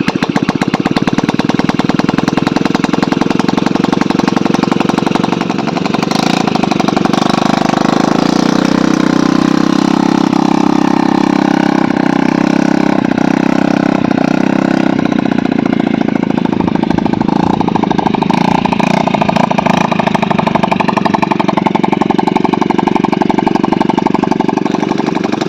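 ATV (quad bike) engine running close by, its pitch rising and falling in places as it revs.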